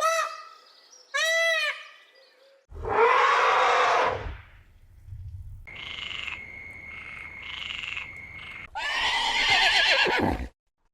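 A run of separate animal calls cut one after another: short arched pitched calls in the first two seconds, a harsh call about three seconds in, a steady high tone with pulsing calls from about six to nine seconds, and a last harsh call that stops suddenly near the end.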